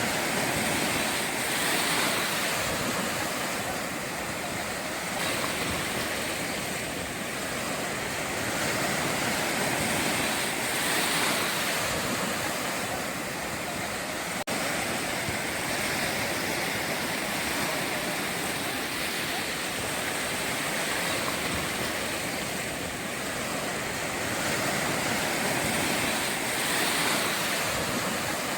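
Ocean surf washing onto a beach, a continuous rush of waves that swells and eases every few seconds, with a momentary dropout about halfway through.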